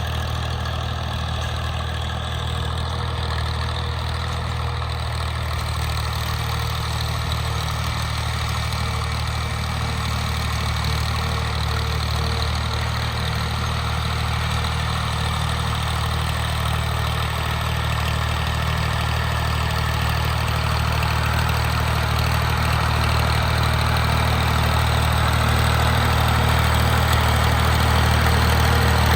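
Tractor engine running steadily with a deep, even throb, growing gradually louder over the last third.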